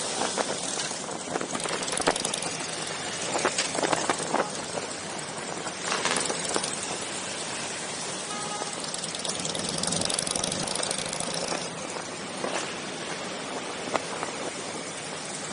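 Motorcycle engines running during a group ride, under a steady rushing noise with irregular buffeting on the microphone.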